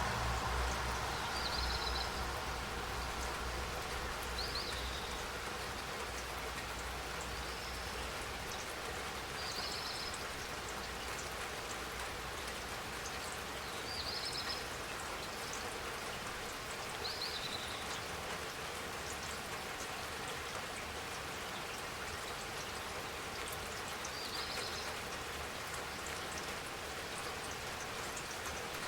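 Steady spring rain falling, an even hiss of raindrops. Short high chirps come every few seconds, and a low rumble fades away over the first several seconds.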